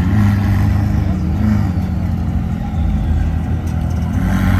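Car engine running with a steady low rumble, its pitch swelling slightly now and then.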